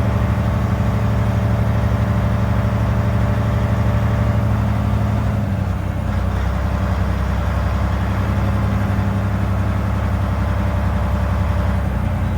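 Semi truck's diesel engine running at low revs while reversing a trailer into a parking spot. Its pitch drops a little about six seconds in.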